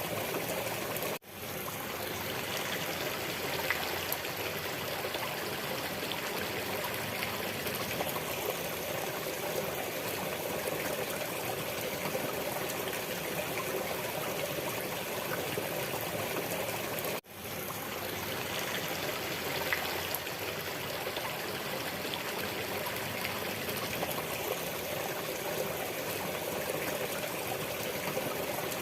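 Running water of a stream, a steady flowing and trickling sound that drops out for an instant twice, about a second in and again about 17 seconds in.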